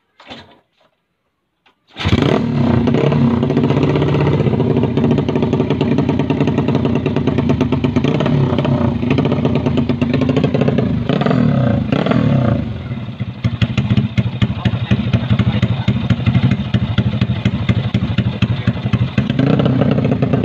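Yamaha Jupiter Z's single-cylinder four-stroke engine breathing through a Proliner racing exhaust, coming in suddenly about two seconds in and running loud, with the throttle blipped around the middle and again near the end.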